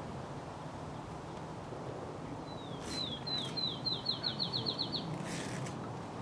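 A songbird calling a series of about a dozen short, high notes, each slurring downward, coming quicker toward the end, over a steady outdoor background.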